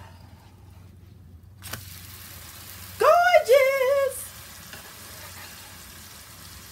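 Pancake flipped with a slotted metal spatula on a hot electric griddle: a short knock as it turns over, then a steady sizzle as the raw batter side hits the hot surface. A brief high-pitched vocal exclamation cuts in about three seconds in.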